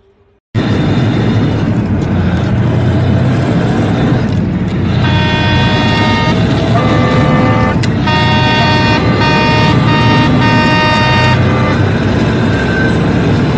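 Loud road and traffic noise from a vehicle, with a car horn honking in a series of long and short blasts from about five seconds in until about eleven seconds.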